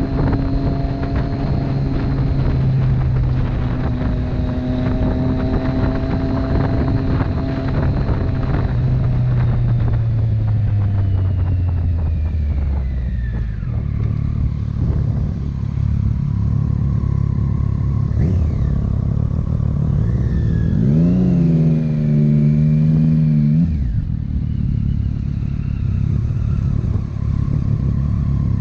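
Motorcycle engine running at a steady speed, then the engine note falls over several seconds as it slows. About 21 seconds in, a short rising engine note is held for about three seconds before dropping away.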